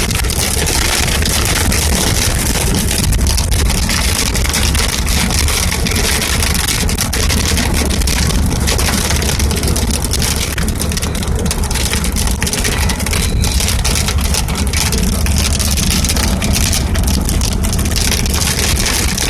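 Strong wind of a storm front buffeting the microphone: a loud, steady rush with a deep rumble underneath.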